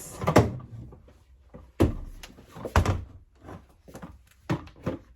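A series of knocks and clunks, about five, as household items are lifted off and set down on top of a washing machine.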